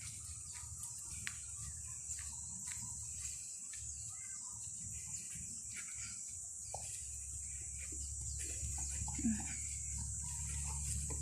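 Outdoor rural ambience: scattered short bird calls over a steady high-pitched hiss and a low rumble that grows louder toward the end, with one brief louder sound a little after nine seconds.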